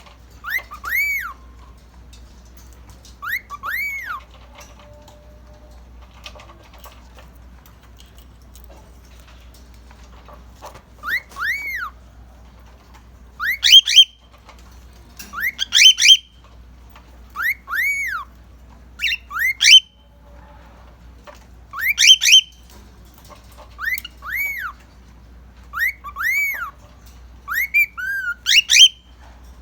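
Male cockatiel whistling: short whistled notes that rise and then fall, often in pairs, repeated every couple of seconds, with louder, higher notes from about halfway through.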